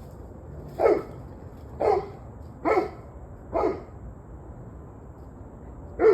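A dog barking: four single barks about a second apart, a pause of two seconds, then one more bark near the end, the loudest. Part of barking that has gone on and off for about an hour and a half.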